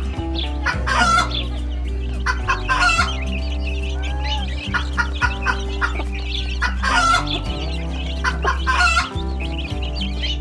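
Chickens clucking over background music with a steady beat and a sustained bass line.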